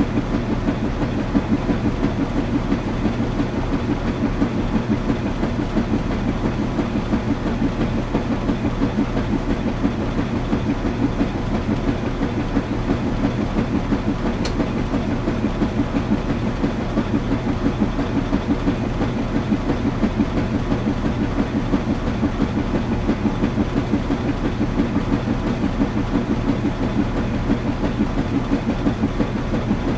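Washing machine running steadily, with a low hum and a fast, even rhythmic pulsing from the turning drum. A single faint tick about halfway through.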